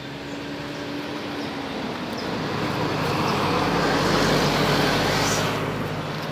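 A motor vehicle passing by, its noise growing louder to a peak about four seconds in and then fading, over a steady low engine hum.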